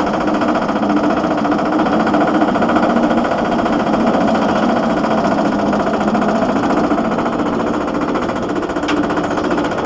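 Silver Bullet inverted roller coaster's train climbing the lift hill, its chain lift clattering steadily in a fast, even rattle.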